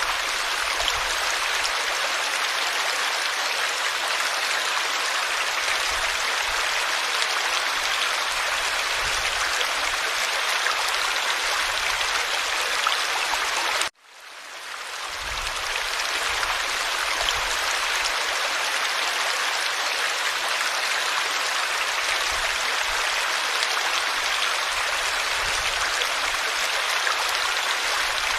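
Forest stream flowing with a steady rush of running water. About halfway through it cuts out briefly, then fades back in.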